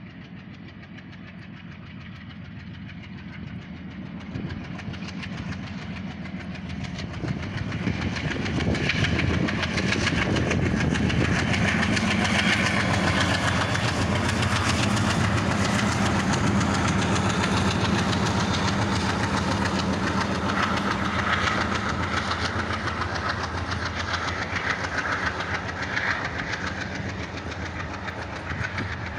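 ALCO diesel locomotive at the head of a goods train, its engine growing louder over the first eight seconds or so as it draws near and passes. The freight wagons then roll by with wheels clattering over the rails, easing off slightly near the end.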